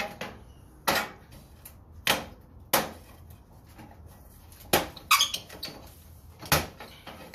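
Sharp knocks and clinks of fluorescent light fixture parts being handled: about six separate hits at uneven spacing, two close together near the middle.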